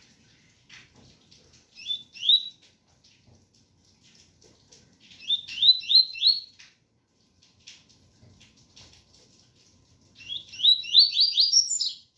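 Double-collared seedeater (coleiro) singing its 'tui tui' song: three phrases of quick, rising whistled notes, the last the longest, over a faint patter of rain.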